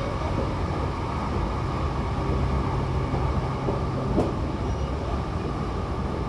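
Inside a Hankyu electric train car running between stations: a steady rumble of wheels on rail and running gear. A low hum holds for a couple of seconds mid-way, and a single sharp knock comes about four seconds in.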